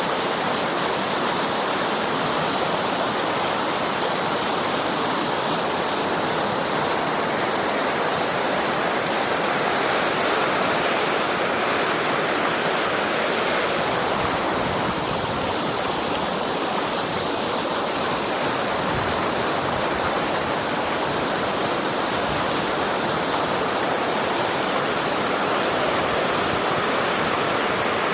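Fast-flowing, swollen river water rushing steadily.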